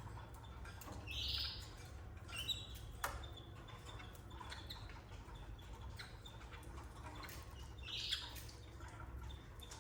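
Canaries calling at the nest: two short, raspy calls about seven seconds apart, with a brief thin chirp and a sharp click between them. A steady low hum runs underneath.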